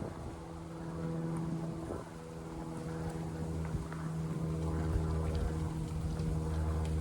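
A motor running steadily with a low, even hum, its rumble growing louder in the second half.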